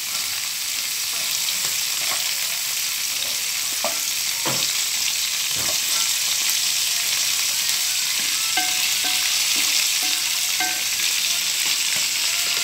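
Crabs frying in a pot with a steady sizzling hiss. A spatula stirs them, scraping and knocking against the pot now and then.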